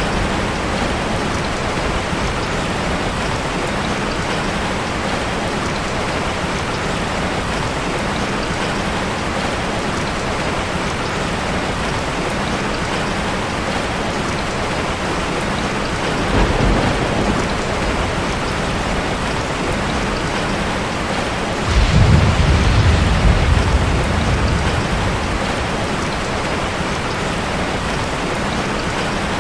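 Steady rain falling, with low rolls of thunder: a short one just past the middle and a louder one that starts suddenly near the end and dies away over a few seconds.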